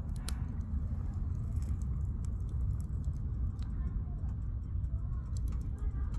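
Firewood burning in a campfire, crackling with scattered sharp pops, the sharpest about a third of a second in, over a steady low rumble.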